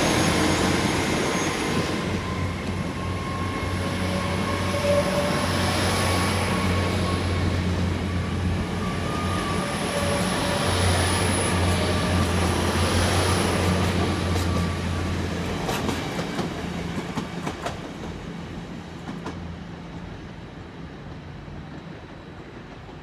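GWR Class 802 IET bi-mode train pulling out under its underfloor diesel engines: a steady low engine drone that drops away about two-thirds of the way in, followed by a few wheel clicks over rail joints as the train fades into the distance.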